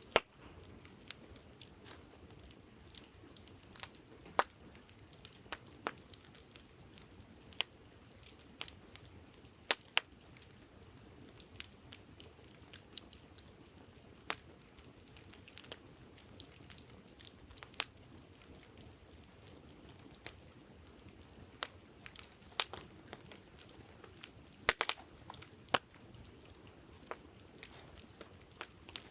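Wood campfire crackling: irregular sharp pops and snaps from the burning logs over a faint steady hiss, with a cluster of louder pops near the end.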